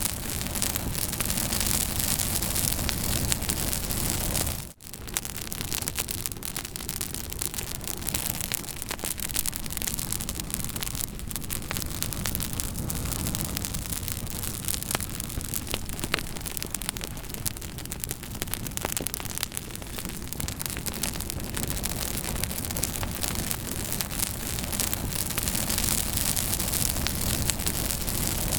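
Campfire burning, a steady rush of flames with many small crackles and pops throughout. The sound drops out for a fraction of a second about five seconds in.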